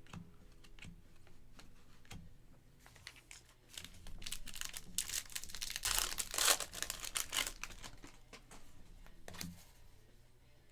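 A foil trading-card pack wrapper crinkling and tearing as it is ripped open, a dense crackly rustle that builds about four seconds in and peaks in the middle, with a few light clicks of card handling before and after.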